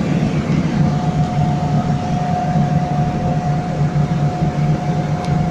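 Fiat 850 Sport heard from inside the cabin at highway speed: the steady drone of its small rear-mounted four-cylinder engine over road and wind noise, with a thin steady whine that sets in about a second in.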